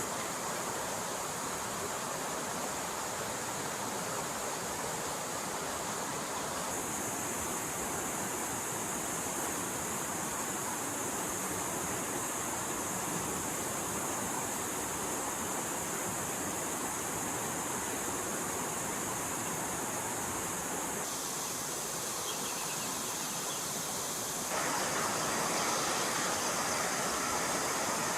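Stream water flowing steadily. Its tone changes abruptly a few times, and it gets a little louder about three-quarters of the way through.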